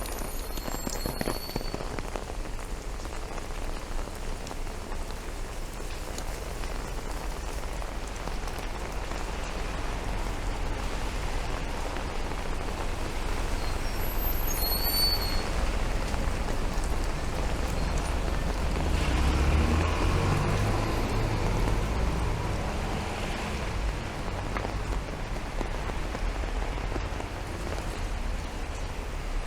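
Steady rain falling on city streets and pavement, with a vehicle passing, its rumble swelling and fading again about two-thirds of the way in. A few short, high-pitched chirps sound near the start and around the middle.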